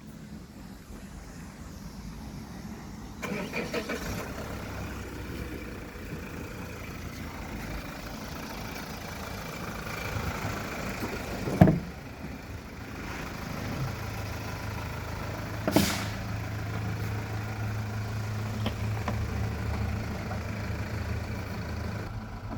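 GAZelle van's diesel engine running, settling into a steady low idle in the second half. Two loud sharp knocks cut through it, one about halfway through and another about four seconds later.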